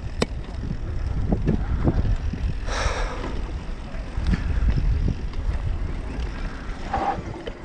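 Wind rumbling on the microphone while riding a mountain bike, with scattered clicks and rattles from the bike and a short hiss about three seconds in.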